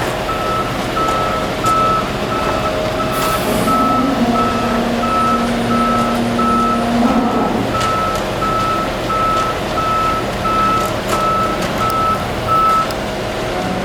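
Truck reversing alarm beeping at an even pace, about one and a half beeps a second, over the steady running of the truck's diesel engine; the beeping stops near the end. A low steady tone sounds for about three seconds in the middle.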